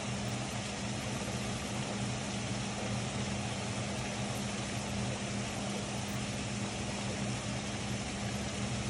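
Steady rain falling, an even hiss with no change in level, over a steady low hum.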